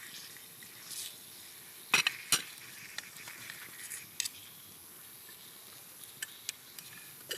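Faint sizzling of food on an iron griddle plate, broken by a few sharp clicks and taps, the loudest a pair about two seconds in.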